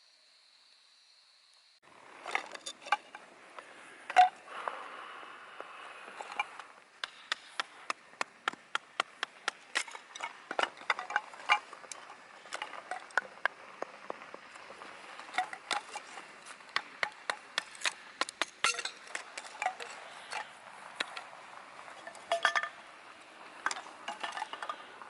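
Cookware and utensils being handled, with irregular light clinks and taps one to three times a second. It begins about two seconds in.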